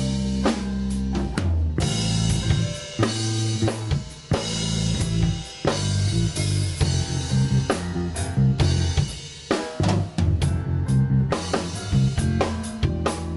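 Instrumental rock band playing live: drum kit with snare and bass drum hits driving a stop-start riff with bass guitar and electric guitar, cutting off sharply several times and coming straight back in.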